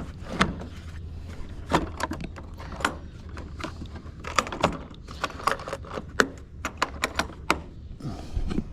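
Metal hand tools and sockets clinking and clattering in a toolbox as it is handled: a string of sharp, irregular clicks over a steady low hum.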